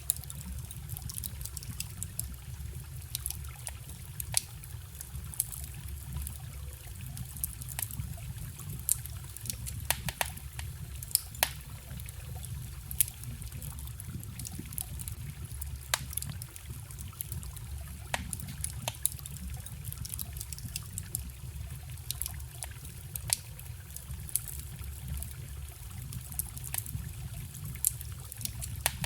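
Wood fire crackling with sharp, irregular pops over the steady trickle of a forest stream.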